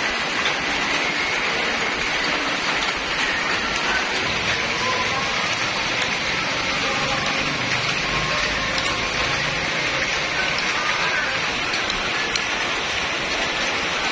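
Steady rain falling on tiled rooftops and grass: an even, unbroken hiss.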